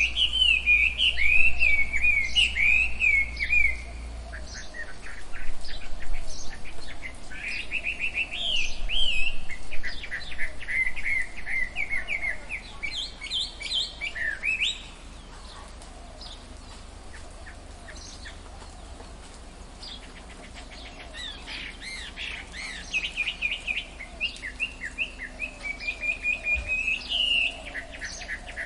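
Tropical forest birds chirping and singing in quick, repeated phrases. Past the middle the calls fall back to faint chirps for several seconds, then the chirping picks up again.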